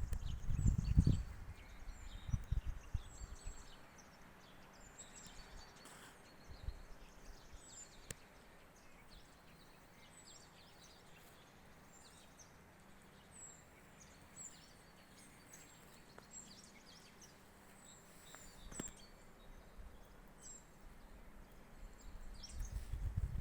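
Small birds giving many short, high chirps over quiet woodland ambience. Footsteps sound at the start, stop after about three seconds, and start again near the end.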